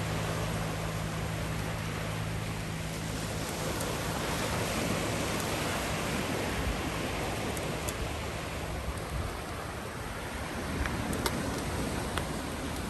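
Steady rushing noise of wind on the microphone while riding a bicycle along the beach, with a low hum that fades out after about three seconds and a few light clicks near the end.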